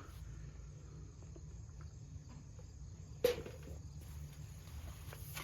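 Insects chirping steadily in the background, with a single sharp knock about three seconds in.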